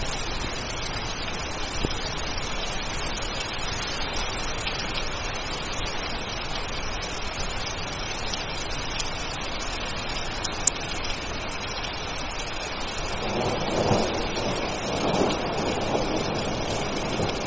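Steady rain falling, an even hiss throughout. A single sharp click comes about ten seconds in, and a low rumble swells up over the last few seconds.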